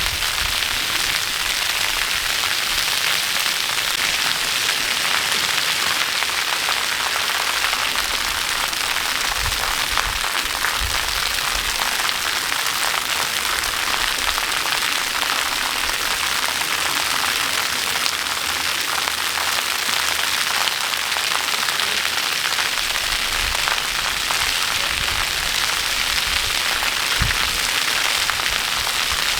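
Steady, unbroken hiss of falling water splashing, as from a waterfall, with a few brief low thumps on the microphone.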